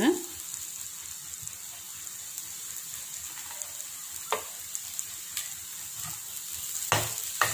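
Faint steady sizzle of grated raw banana and coconut cooking in a pan on a gas stove. Two sharp knocks of a metal ladle against the pan, the louder one near the end.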